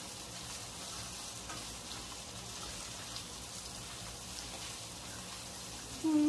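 Beef with freshly added bell pepper and onions sizzling in an oiled frying pan over a gas flame, stirred with a spatula; a steady frying hiss.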